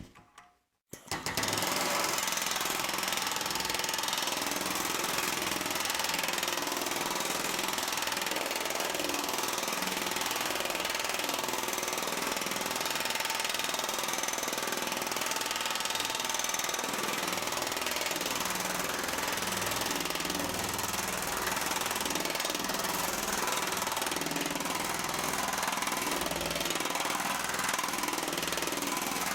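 TM Tech pneumatic power hammer with large reverse dies starting about a second in, then hammering rapidly and steadily on a sheet of .050 half-hard 1100 aluminum, stretching it into a large reverse curve.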